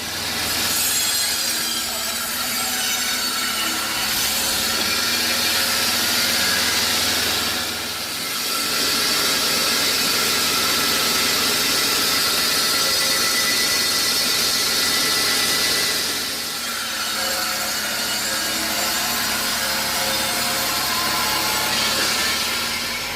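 Sawmill blade cutting lengthwise through a log: a steady, loud hissing saw noise over the machine's running motor, easing off briefly twice.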